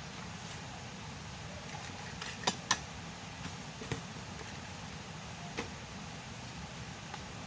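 Steady low background rumble with a few short, sharp knocks: two close together about two and a half seconds in, then single ones later.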